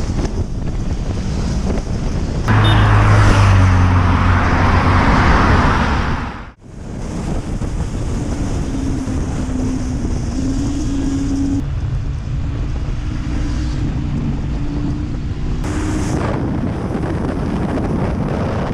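Honda CB650R's inline four-cylinder engine running under throttle on the move, its note stepping in pitch several times, with heavy wind rushing over the microphone. It is loudest for a few seconds near the start, then cuts out briefly about six and a half seconds in.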